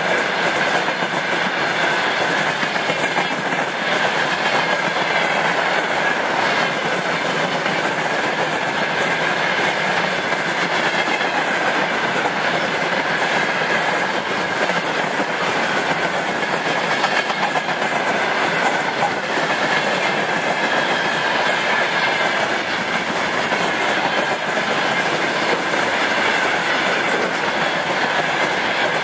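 Long freight train of railway tank cars rolling past at close range: a continuous rumble of wheels on rail with clickety-clack over the rail joints and a steady high tone above it. The last wagons pass near the end.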